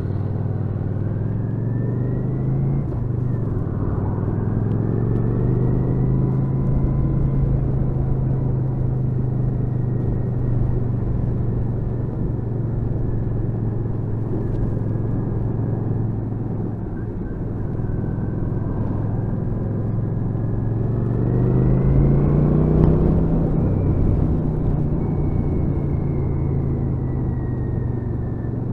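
Kawasaki VN800 Drifter's V-twin engine running on the move, its pitch rising as it accelerates a few seconds in, holding steady, then climbing again to its loudest about three-quarters of the way through before easing off. Steady wind and road noise lie underneath.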